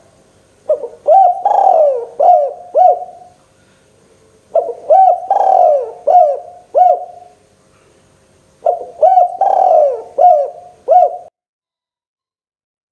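Spotted dove (tekukur) cooing: three phrases of about five notes each, roughly four seconds apart, then it stops suddenly.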